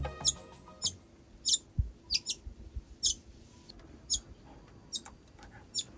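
A bird calling with short, high chirps that drop quickly in pitch, repeated about once a second.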